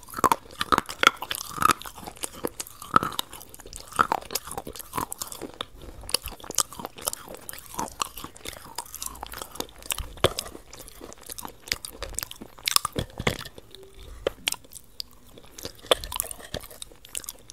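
Close-miked chewing: a person chewing and biting food, with many short irregular clicks and crunches from the mouth.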